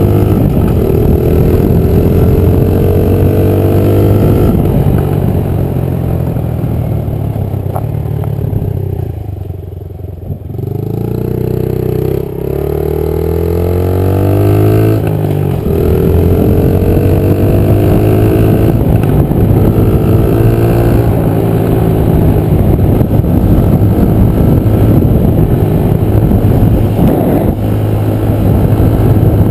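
Small Honda 50 cc four-stroke single dirt-bike engine under way, its pitch climbing and dropping back again and again as it accelerates around the track. About a third of the way in the throttle eases off and the engine note falls low and quieter, then it picks up and climbs again.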